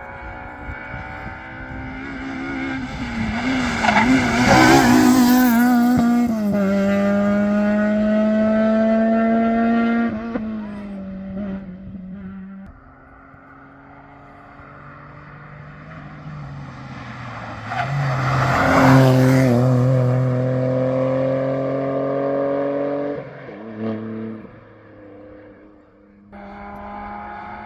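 Modern rally car engines at full throttle on a special stage, going past loud twice. Each time the engine note climbs steadily, then drops sharply at a gear change or lift.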